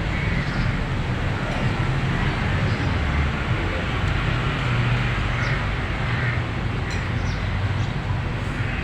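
Steady road-traffic noise with a low rumble, and a few faint high chirps in the second half.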